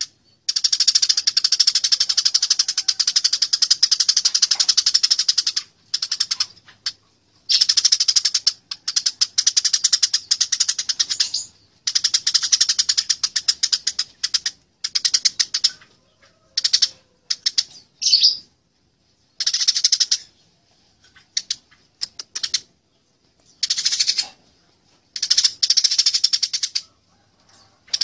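Eurasian tree sparrows chattering in fast, dense runs of chirps, bouts of a few seconds each broken by short pauses: the agitated calls of sparrows fighting.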